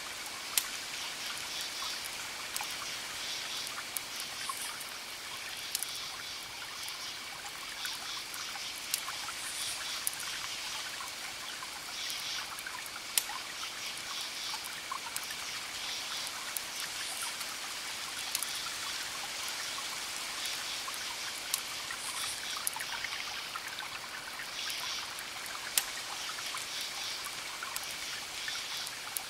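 Wood fire crackling steadily, with about ten sharp pops scattered through.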